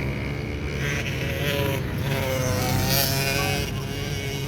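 Pit bike engines running and revving, their pitch rising and falling as the bikes ride the dirt track.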